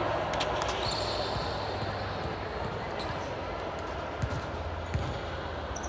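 Volleyball play in a gym: a ball struck and bouncing several times, a few brief high squeaks, over steady background voices.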